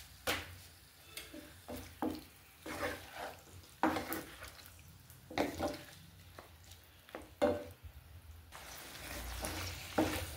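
Spatula strokes scraping and knocking in a pan, about one a second, over food frying in oil. About eight and a half seconds in, a steadier sizzling hiss comes up.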